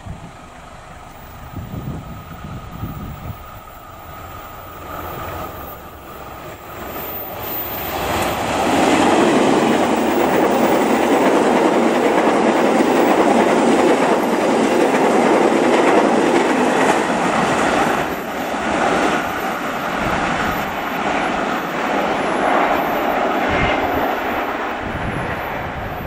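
Diesel-hauled passenger train passing at trackside: its wheels rumble on the rails, building to the loudest point about eight seconds in and staying loud for about ten seconds. Then the wheels clatter over the rail joints as the coaches run by and away.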